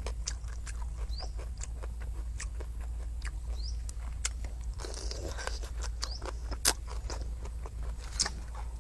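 A person eating close to a clip-on microphone: chewing and crunching with scattered wet mouth clicks, denser and louder about five seconds in, with one sharp click a little later. A short rising chirp repeats every second or so in the background.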